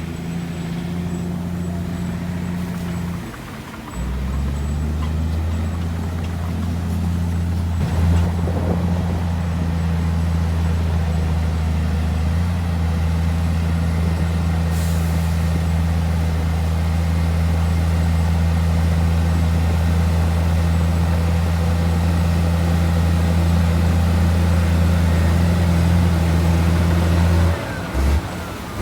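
Heavy diesel engine of earthmoving machinery running steadily under load, with a brief drop in engine note about three seconds in and again just before the end.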